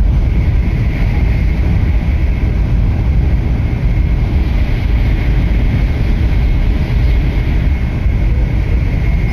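Tokaido Shinkansen train running, heard from inside the passenger car. It makes a steady, loud, low rumble with a thin high whine held over it.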